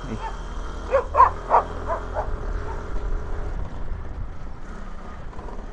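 A dog barking four times in quick succession about a second in, over the steady low rumble of a ride on a scooter.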